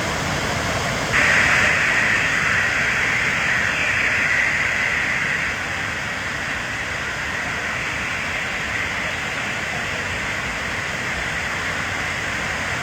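Waterfall rushing with a steady hiss. About a second in, a louder, higher hiss comes in suddenly and eases off a few seconds later.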